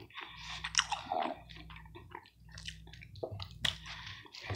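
A person chewing a mouthful of food close to the microphone, with irregular mouth clicks and crunches. A low steady hum runs underneath.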